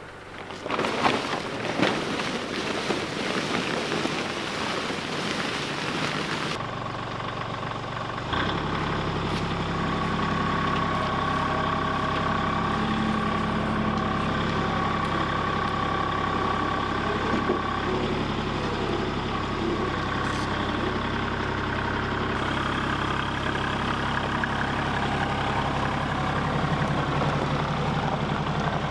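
Tractor engine running. It is uneven for the first several seconds, then settles about eight seconds in to a steady run with a low hum and a steady whine over it.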